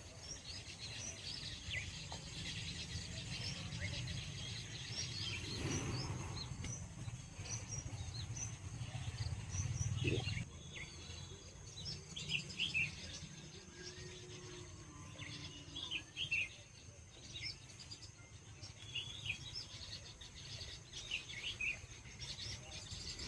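Many small birds chirping and calling in short, overlapping notes, over a steady high insect drone. A low rumble underneath dies away about ten seconds in.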